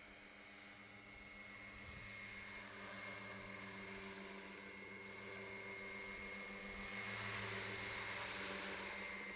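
Fun-Key MD500E 700-size scale RC helicopter flying: a steady drone from the rotors with a high whine on top, growing louder about seven seconds in.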